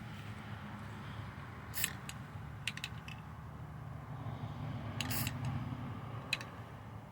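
Scattered light clicks and short knocks from handling paint and tools at the sink, over a low steady hum.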